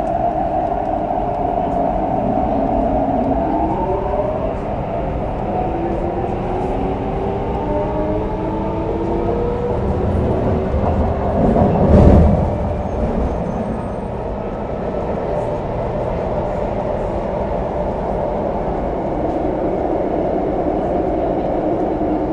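Interior running noise of an MTR CRRC Changchun EMU motor car, its Mitsubishi Electric IGBT-VVVF traction inverter and motors whining in several tones that rise in pitch as the train picks up speed. About twelve seconds in there is a brief loud low rumble with a sharp click, after which the car runs on with steady rail and motor noise.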